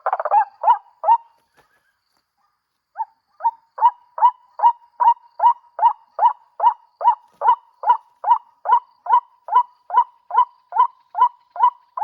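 White-breasted waterhen call, a clipped repeated "kru-ak" note at about two and a half calls a second, played as a lure recording. It stops dead for about two seconds soon after the start, then resumes at the same even pace, as a looping playback does.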